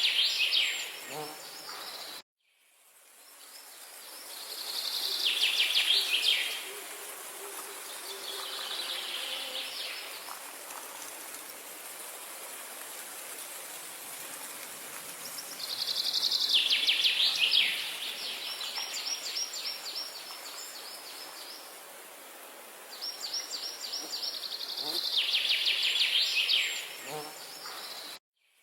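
A songbird singing repeated phrases, each a rapid trill of notes falling in pitch over about two seconds, five times with pauses between. The birdsong sits over a steady hiss of outdoor background noise, and the sound cuts out completely for a moment twice, once about two seconds in and once near the end.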